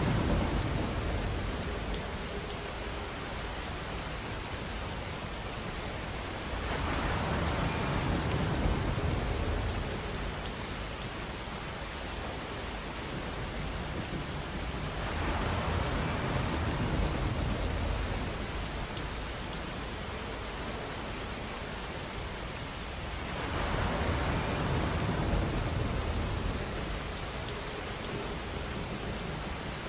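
Rain on a camper van, a steady hiss of drops that swells louder about every eight seconds, with a low rumble in each swell.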